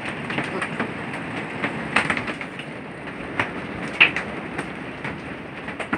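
Rain falling steadily after a hailstorm, with scattered sharp taps on hard surfaces, one louder tap about four seconds in.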